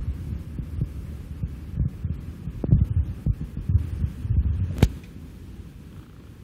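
Low rumble of a dam's conduit gates discharging floodwater at about 100 tonnes a second, with irregular low thumps of wind buffeting the microphone. There is a sharp click about five seconds in, and the rumble eases after that.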